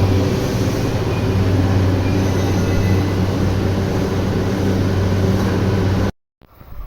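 Electric train running through the station: a loud, steady rumble with a low hum under it. It cuts off abruptly about six seconds in, and quieter background sound follows.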